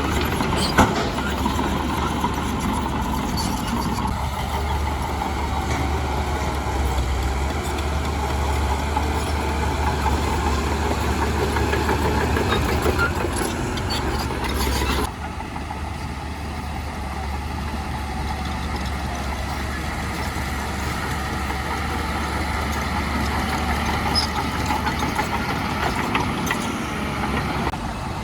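Heavy diesel engines of earthmoving machinery running steadily with a deep hum. About halfway through the sound drops abruptly and carries on quieter.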